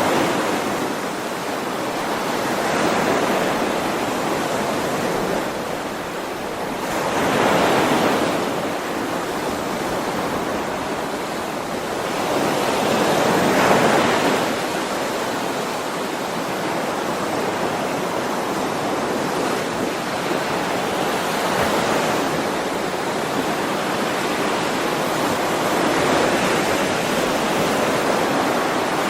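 Ocean waves rolling in and washing over the shore, with a steady hiss of surf. It swells and falls back every few seconds, and the biggest breakers come about a third and about halfway in.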